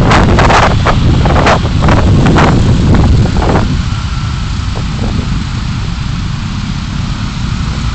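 Car driving: a low road and engine rumble with a string of short thumps over the first three and a half seconds, then a steadier, quieter rumble.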